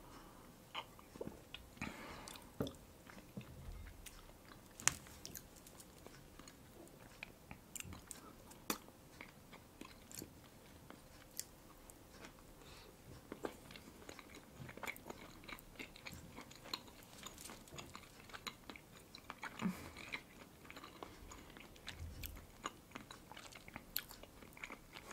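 Close-miked chewing and biting of a red caviar open sandwich, bread topped with salmon roe: quiet, irregular wet mouth sounds with small clicks.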